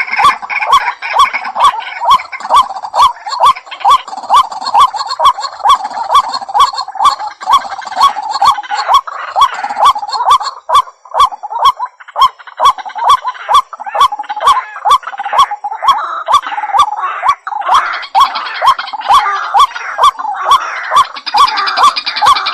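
White-breasted waterhen calling: a monotonous string of loud, sharp notes at about two a second, with a denser chattering, gurgling layer over it that builds near the end. A lure recording of the call used to draw in the bird.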